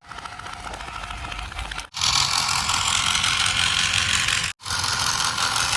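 Small electric motors and plastic gears of toy construction vehicles whirring and rattling, in three separate cuts, the last two louder than the first.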